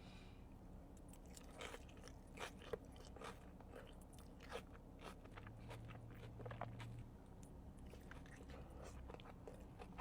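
A person chewing food close to the microphone: irregular soft mouth clicks and smacks, a few louder ones in the first half.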